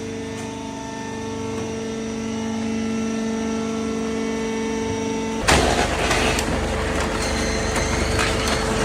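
Automatic hydraulic vertical baler running, its power unit giving a steady hum. About five and a half seconds in, a sudden, louder rush of machine noise starts and keeps going as the baler works.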